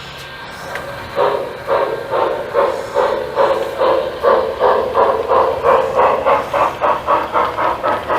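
Lionel model steam locomotive's sound system chuffing as the engine gets under way, the chuffs coming faster and faster, from about two a second to about four a second.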